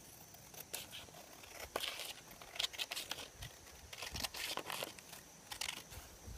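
A sheet of A4 paper rustling and crackling in short, uneven strokes as the excess strip is cut away from a folded square.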